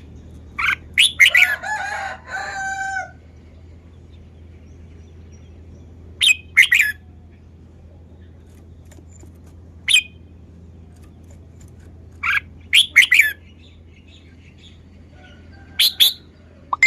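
Red-whiskered bulbul singing in short, bright phrases separated by pauses of a few seconds, five phrases in all. The first, about a second in, is the longest.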